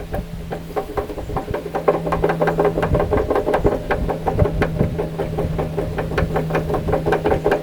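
Rapid, even metallic clicking, about six to eight clicks a second, over a steady low hum.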